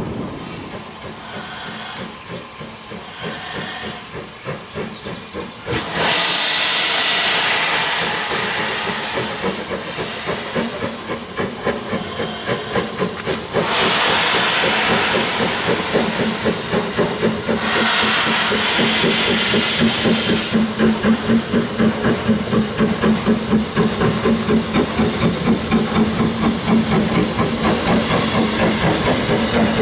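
Steam locomotive letting off loud bursts of steam hiss several times. From about two-thirds of the way in, its exhaust beats take over, about two a second and regular, as it works.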